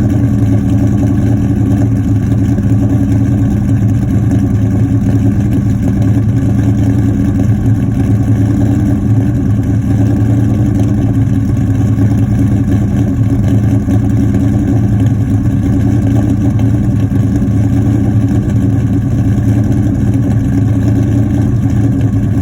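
2003 Mustang Mach 1's modified 5.0 V8 with Comp XER cams idling steadily through BBK long-tube headers, an off-road H-pipe and a Magnaflow cat-back exhaust. It gives a deep, even exhaust note with no revving.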